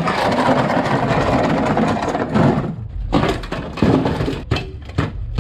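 Harsh metal cutting and scraping on a car body's sheet-metal panels for about two and a half seconds, then a run of separate metallic clanks and knocks as the pieces are worked loose.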